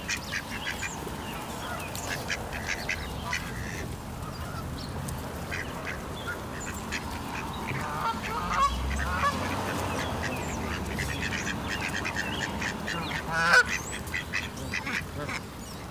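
Birds calling: many short calls through the whole stretch, with one louder call about thirteen and a half seconds in.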